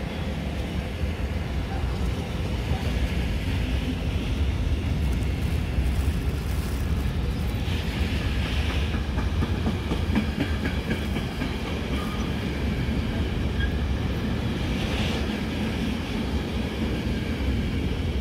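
Container freight train's flat wagons, some empty and some loaded with containers, rolling past: a steady heavy rumble of wheels on rails with a continuous clickety-clack.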